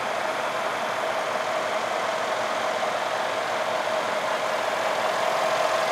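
Brabus 850 S-Class's 6.0-litre twin-turbo V8 idling steadily, with an even hum that holds one pitch.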